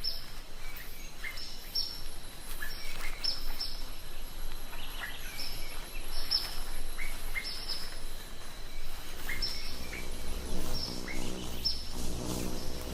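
A bird calling in short high chirps, often in pairs, repeated about once a second. Low steady tones join in near the end.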